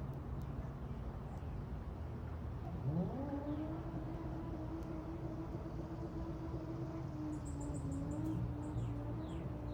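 A motor or engine nearby speeds up about three seconds in, its pitch rising and then holding steady, over a low background hum. Faint short bird chirps come and go above it.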